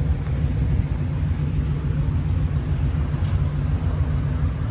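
Steady low rumble of motor traffic on a town street, with engine hum.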